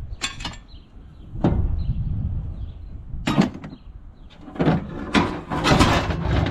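Several separate clunks and scrapes of metal garden tractor parts being handled and shifted around.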